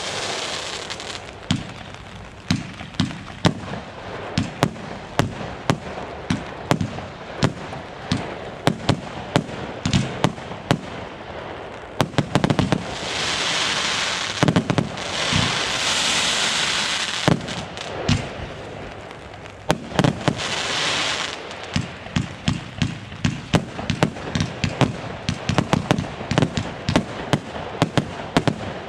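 Fireworks going off: a rapid, irregular series of shots and bangs. Longer stretches of steady hiss come about 13 to 17 seconds in and again around 20 seconds.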